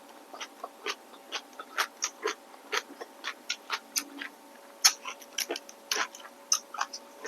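Close-miked eating of rice noodles with shrimp: wet mouth clicks and smacks of chewing in an irregular quick patter, several a second.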